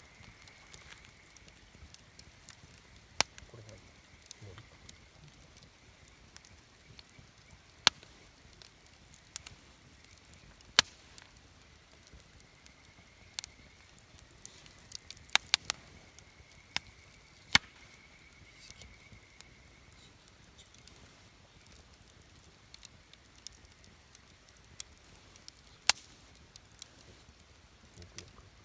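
Campfire wood crackling: sharp, irregular pops over a low steady hiss, with a quick cluster of pops about halfway through.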